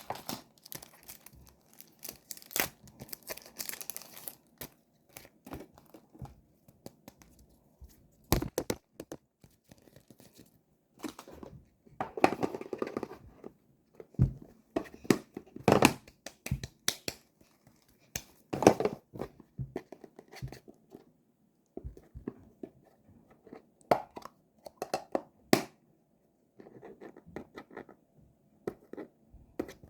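Plastic packaging being handled and torn open by hand: irregular crinkling and tearing with sharp clicks and taps, in short bursts separated by quiet pauses.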